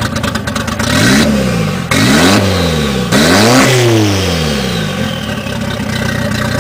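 Car engine revving in three quick surges, each sweeping up and down in pitch, then settling back toward idle.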